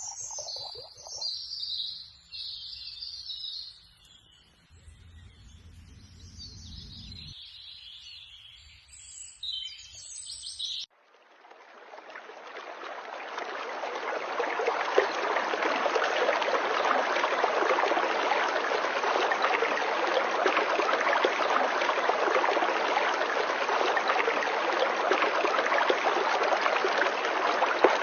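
Birds chirping and singing. About a third of the way in, the sound cuts to a steady rush of flowing water, like a stream, that fades in over a few seconds and then holds.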